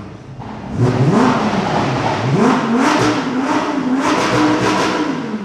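Car engine revved hard twice in quick succession, then held at high revs, wavering, for a few seconds before dropping back.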